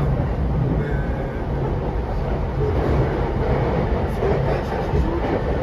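JR East E233-7000 series electric train running at speed, heard from inside the car: a steady rumble of wheels on the rails and running gear, with no braking or sudden events.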